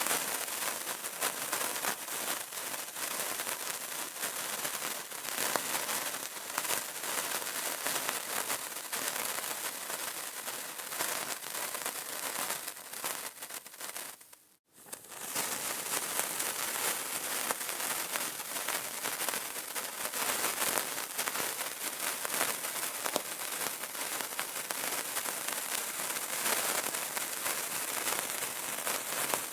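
Burning candle crackling: a dense, unbroken stream of small crackles and pops, which fades out briefly to near silence about halfway through and then resumes.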